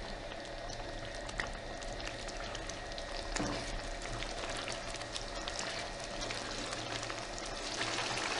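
Chicken curry in a spiced yogurt-tomato gravy sizzling and bubbling in the pan: a steady hiss with scattered small crackles and pops.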